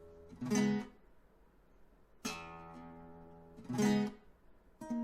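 Acoustic guitar playing slow strummed chords. Each chord is left to ring and fade, and short, louder strums come about half a second in and again near four seconds.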